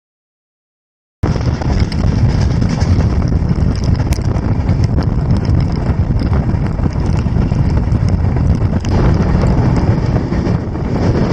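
Passenger train running at speed, heard from an open door or window: wind buffeting the microphone over the steady rumble of the wheels on the track. The sound cuts in about a second in, after dead silence.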